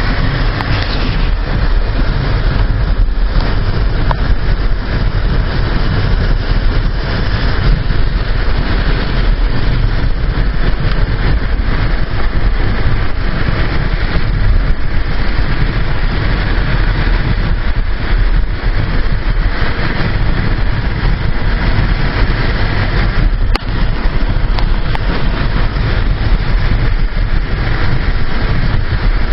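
Hurricane-force wind blowing hard and buffeting the microphone, a loud, steady rushing rumble with no letup.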